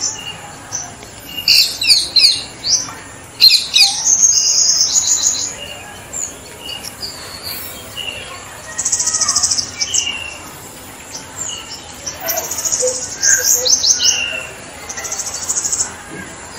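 Songbirds chirping and singing: quick high downward-sliding notes in short runs, and three buzzy trills about a second long, near the middle and toward the end.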